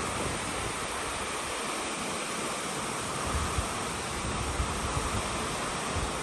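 Heavy rain falling steadily, a dense even hiss, with low rumbles of wind on the microphone here and there.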